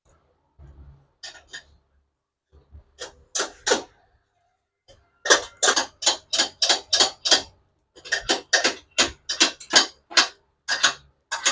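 Hand tool clicking in quick, even strokes, about four a second, as a bushing on a TVS Apache 160 RTR motorcycle engine is tightened. A few single clicks come first, then steady runs from about five seconds in, with a short pause near eight seconds.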